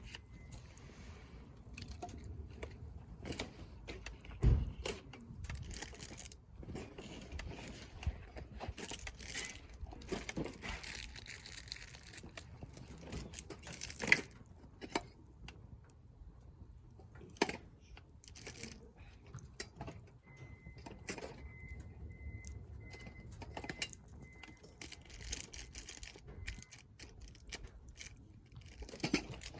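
Wood fire crackling in a fire pit: scattered sharp pops and snaps over a low, steady rumble, with a few louder pops through the middle.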